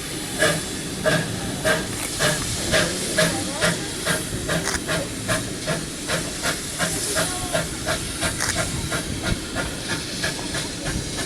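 Steam locomotive exhaust chuffing with a steady hiss of steam, the beats about two a second at first and coming gradually faster as the engine gets the train moving.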